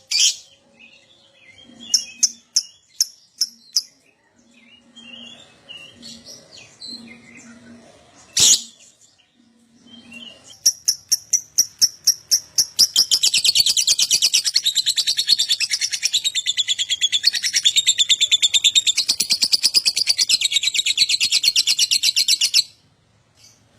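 Lovebird calling: scattered sharp chirps, then a run of quick chirps that about halfway through becomes a long, fast, unbroken chattering trill lasting about ten seconds, which stops abruptly. This is the lovebird's 'ngekek' song, the kind of recording keepers play to set other lovebirds singing.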